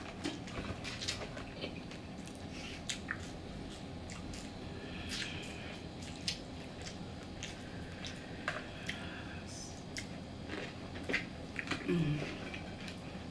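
Close-up eating sounds of Popeyes fried chicken being bitten and chewed: scattered short crisp crunches and clicks over soft wet chewing.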